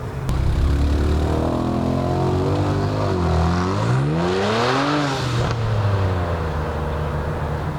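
Car engine accelerating hard. Its pitch climbs, dips briefly about three seconds in, then climbs again to a peak near five seconds with a burst of hiss before falling away.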